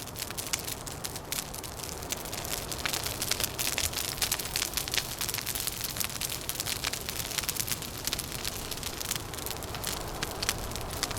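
Wood fire crackling, with many sharp snaps and pops over a steady low rush of noise.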